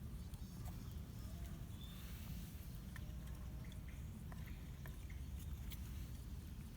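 Wood campfire crackling: sparse small pops and ticks over a low steady rumble.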